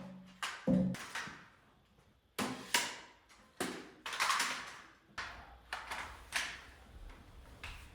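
White oak workpieces being handled and set down: about a dozen irregular sharp knocks and clunks, each fading quickly. The loudest come in the first second and carry a short low ring.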